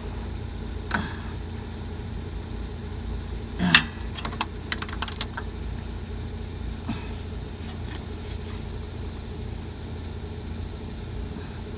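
Sharp metal clicks and clinks of hand tools on a truck's air-conditioning pipe fittings, with a quick run of clicks about four to five seconds in, over a steady low machine hum.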